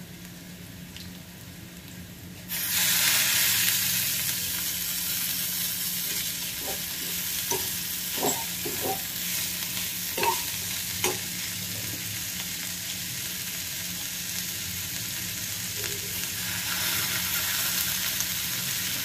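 Squeezed, still-wet drumstick (moringa) flowers going into a hot pan of frying onion, garlic and chilli: a loud sizzle starts suddenly about two and a half seconds in and keeps going. A steel spoon clinks and scrapes against the pan a few times as the flowers are stirred.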